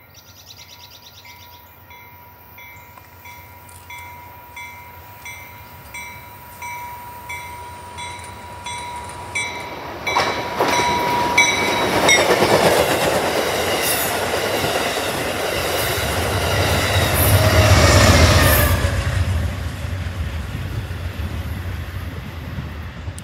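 Passenger train approaching and running through a station at speed. A faint ringing ding repeats about once a second and grows louder. From about ten seconds in, the train rushes past with rail and wheel noise and a low rumble that is loudest near eighteen seconds, then fades as it moves away.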